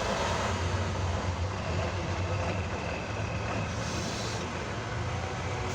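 Competition trial truck's diesel engine running steadily at a low note, with a brief hiss about four seconds in.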